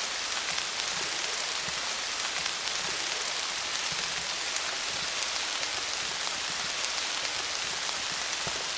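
Steady rain falling on leaves: an even hiss of many drops, with individual drop taps scattered through it.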